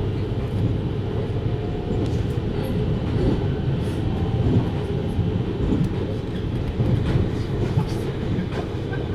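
JR Hokkaido 733 series electric multiple unit running along the line: a steady rumble of wheels and motors on the rails, with a few faint clicks scattered through it.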